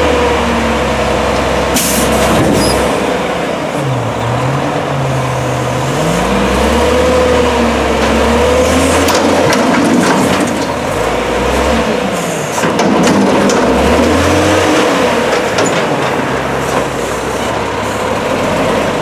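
Diesel garbage truck engine revving up and settling back, twice, with a short hiss of air about two seconds in.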